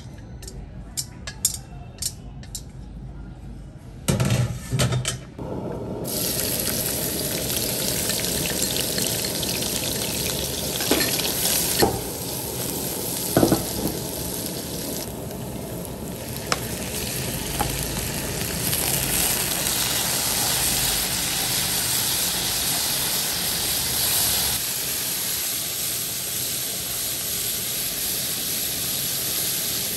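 Minced garlic frying in hot fat in a wok: a steady sizzling hiss that sets in about six seconds in and keeps going, with a few small crackles. Before it, a few light clicks and knocks as pieces of cooked sea snail drop from a metal colander onto a plate.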